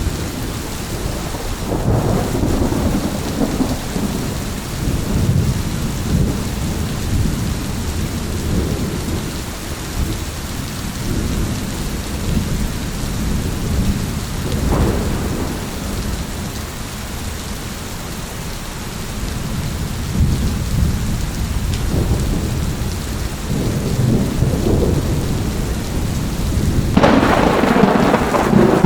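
Steady rain with rolling thunder: low rumbles swell and fade through the first half, build again in the second, and a louder, sharper thunderclap breaks near the end.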